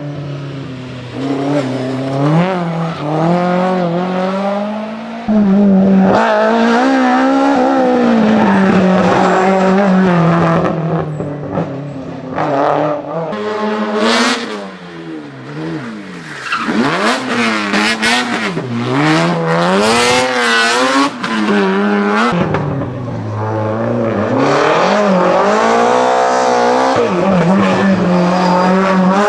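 BMW M3 engine driven hard, its revs climbing and dropping back over and over, with a short dip about halfway through.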